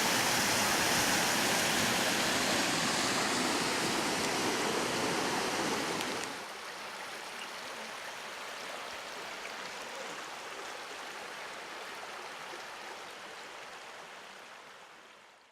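Waterfall rushing in a steady, even roar of water. About six seconds in it drops suddenly to a quieter, thinner rush with less low end, then fades away near the end.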